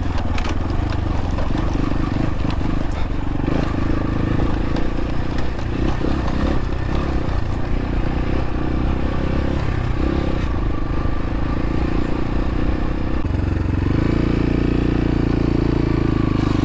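X-Pro Templar X 250 dirt bike engine running while the bike is ridden over rough ground, with scraping and clattering from the terrain. About 14 seconds in, the engine settles into a steadier, slightly louder, even note.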